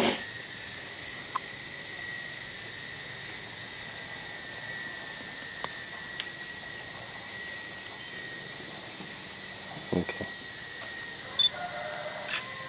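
A steady, high-pitched drone of rainforest insects. A single spoken word breaks in near the end.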